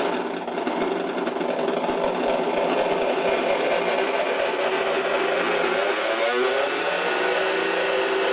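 Homemade 40106 CMOS hex-oscillator noise synth playing through its small onboard speaker: several buzzy square-wave drones sounding together, with a quick warbling pitch sweep about six seconds in. It makes quite a racket.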